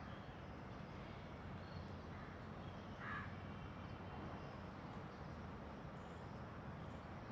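Faint steady outdoor background noise with one short bird call about three seconds in and a few faint high chirps.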